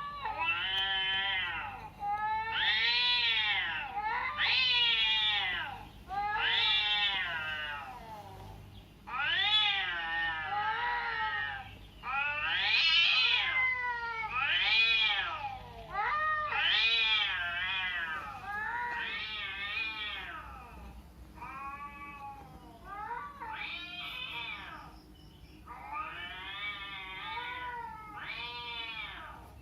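A cat meowing over and over: long drawn-out meows that rise and fall in pitch, about one every two seconds. They are a little quieter in the second half.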